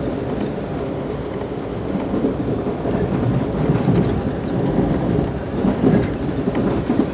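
Moving train heard from aboard: a steady low rumble of wheels on rails, growing somewhat louder after the first couple of seconds, with a few faint clicks near the end.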